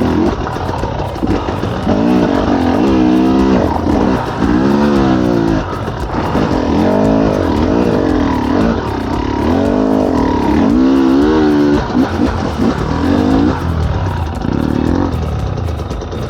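Enduro dirt bike engine revving in repeated surges, each one rising and falling in pitch, as the rider works the throttle for grip on slippery ground.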